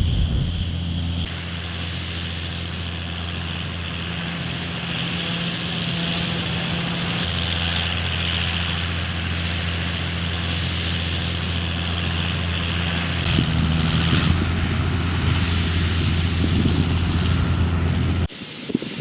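John Deere 6530 tractor running steadily while it pulls a round baler baling wheat straw, a constant engine drone with machinery hiss over it. The drone cuts off suddenly near the end.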